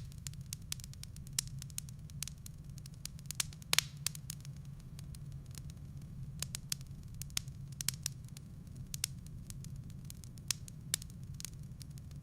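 Firewood burning in a fireplace: irregular sharp crackles and pops over a steady low rumble, with one louder pop about four seconds in.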